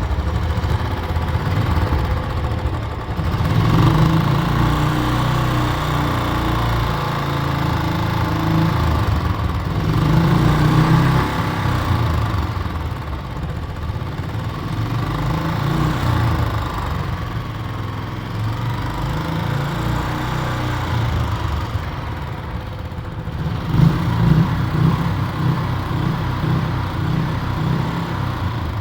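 Royal Enfield Classic 500 single-cylinder engine running at idle and being revved up a few times. This is the engine noise the owner presents as a sound problem.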